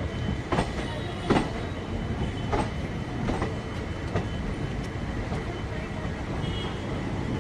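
Passenger train coaches rolling past slowly as the express pulls out, wheels clacking over rail joints above a steady rumble. The clacks are sharpest in the first few seconds, then fade.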